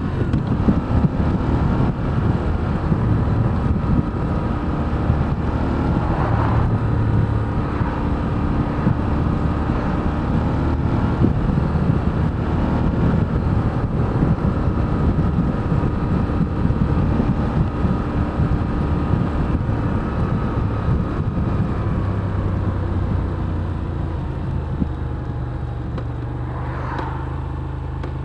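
Moto Guzzi V7 Special's air-cooled transverse V-twin running while ridden, its revs rising and falling. It settles to a steadier, lower note near the end.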